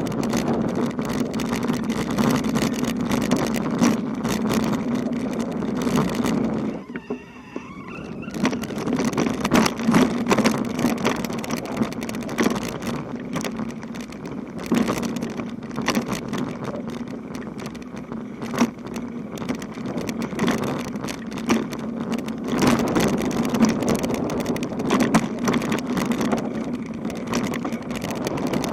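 Bicycle rolling over a rough road: a steady hum with frequent rattles and knocks. It goes briefly quieter about seven seconds in, then picks up again.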